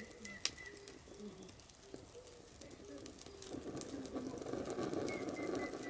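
A dove cooing in a repeated series of short notes, with sharp crackles and pops from burning firewood, the loudest about half a second in. A rougher rushing noise builds about halfway through.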